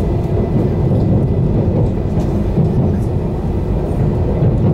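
Cabin running noise inside an E2 series Shinkansen car: a steady low rumble of wheels on rail with a faint, steady high whine over it.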